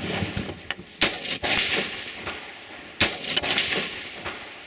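Two rifle shots about two seconds apart, each a sharp crack followed by a long echoing decay.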